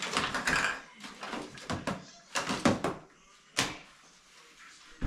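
A series of knocks and clunks from hard objects being handled, about four separate bursts, the sharpest about three and a half seconds in.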